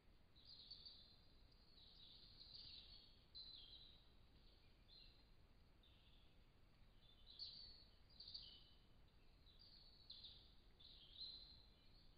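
Faint birdsong: short, high chirping phrases repeated every second or so, over the low hiss of a trail camera's microphone.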